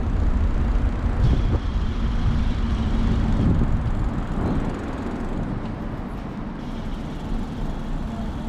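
City street traffic: passing vehicles giving a steady low rumble, louder for the first half and easing off after about four seconds.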